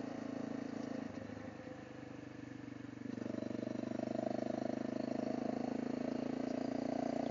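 Honda CRF250L single-cylinder engine running under way. It eases off about a second in, then picks up again around three seconds in and holds a steady note.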